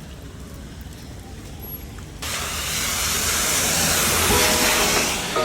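A loud hiss starts suddenly about two seconds in, builds, then fades as guitar music comes in near the end.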